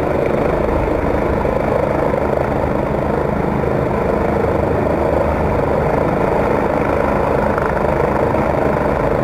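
Helicopter hovering: the steady, rapid beat of its rotor blades with the engine running underneath, holding a hover.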